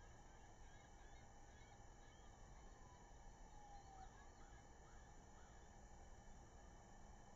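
Near silence over a low steady hiss, with faint bird calls: one long call falling in pitch, then four short chirps in quick succession.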